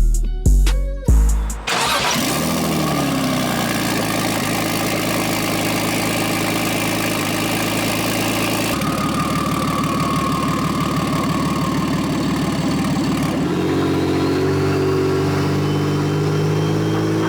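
Music beats for about the first second and a half, then the BMW 335i's turbocharged inline-six with its hood-exit exhaust running steadily while driven. Its note changes about halfway through and again near the end.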